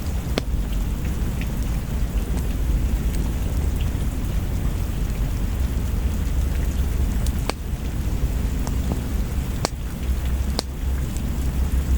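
Steady rain over a low rumble, with a few sharp pops from a crackling wood fire, twice in quick succession near the end.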